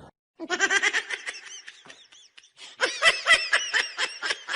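A person laughing hard in quick, high-pitched bursts, in two bouts with a short pause between.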